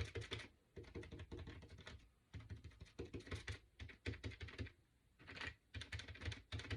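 Paint being applied to a small wooden cutout: quick, light taps and brush-on-wood scratches in short runs with brief pauses.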